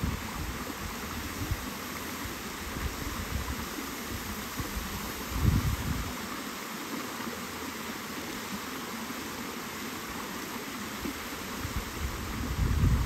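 Steady rush of flowing water, with wind buffeting the microphone about five seconds in and again near the end.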